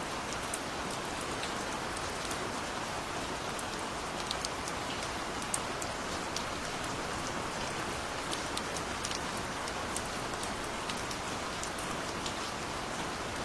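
Steady gentle rain: an even hiss with scattered close raindrops ticking sharply on a surface.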